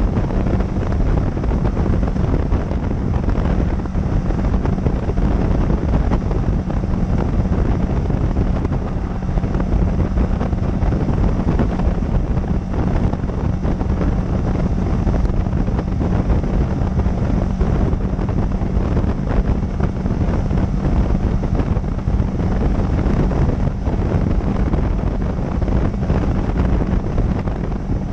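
Wind rushing over a motorcycle-mounted camera's microphone while riding, over the motorcycle's steady engine drone.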